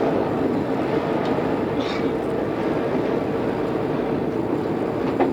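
Odakyu 2600 series electric train running, heard inside the car: a steady rumble of wheels on rail, with a brief high squeak about two seconds in. Played back from an old cassette tape recording.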